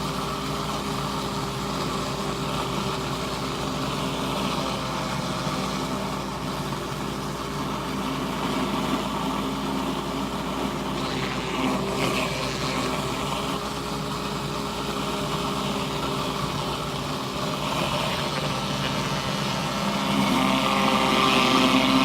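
Pressure washer's petrol engine running steadily, with the hiss of water spraying from the surface cleaner, a little louder near the end.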